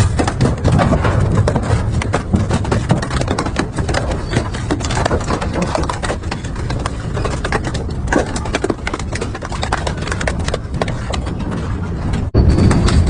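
Industrial double-shaft metal shredder running under load: a heavy low rumble with dense, irregular cracking and crunching as material is torn between the cutters. The sound breaks off for an instant near the end and comes back louder.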